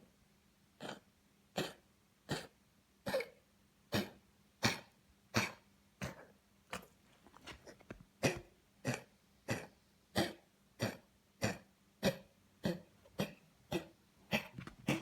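Dog coughing over and over in an even rhythm, about twenty short coughs at roughly one every two-thirds of a second. This is the cough of congestive heart failure from a heart murmur, with fluid on the lungs.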